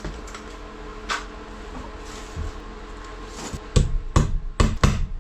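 A steady low hum with an odd click, then about three and a half seconds in a fast run of hard knocking strokes begins, about three a second.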